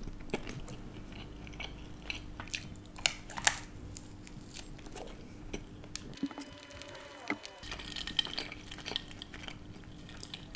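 A person chewing crunchy thin-crust pizza close to the microphone, with sharp crunches scattered through the chewing.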